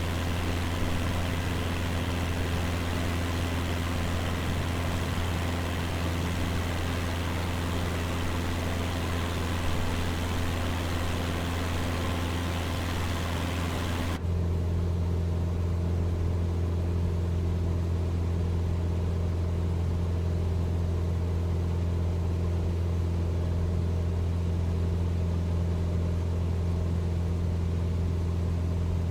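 Cessna 172's piston engine and propeller droning steadily in cruise, heard in the cabin. A loud even hiss lies over the drone for the first half and cuts off abruptly about halfway through.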